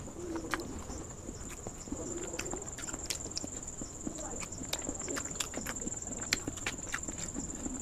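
Close-up eating sounds of halved boiled eggs being picked up and chewed: scattered soft clicks and mouth smacks, over a steady high-pitched whine in the background.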